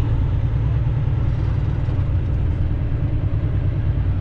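Semi-truck diesel engine running steadily at low revs, heard from inside the cab as a constant low drone.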